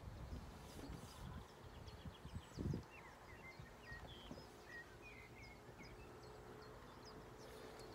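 Faint bird calls, a steady run of short high notes with a few chirps among them, over a low outdoor rumble, with one dull thump a little under three seconds in.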